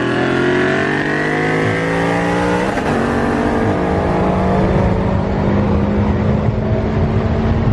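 BMW M5 engine at full throttle from a rolling start, its pitch climbing for almost three seconds. Then a quick upshift drops the pitch, and it pulls on again at a high, fairly steady note.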